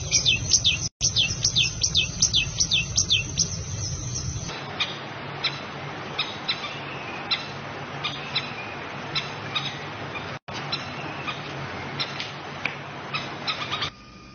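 Bird calls from two recordings in turn: first a rapid series of high descending whistled notes, about three a second, then after about four and a half seconds a different bird's short, scattered high chirps over a steady background hiss.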